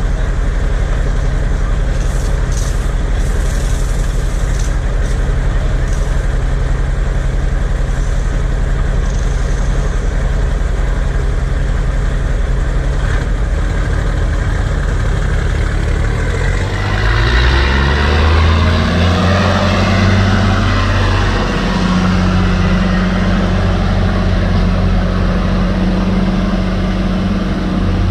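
Heavy International Paystar 5000 truck's diesel engine idling, with brief hissing a few seconds in. About two-thirds of the way through, the engine revs up and keeps running at a higher, louder pitch.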